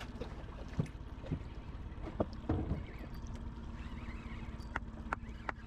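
A small fishing boat under way at trolling speed: a steady low hum with a faint constant tone, broken by scattered light clicks and knocks.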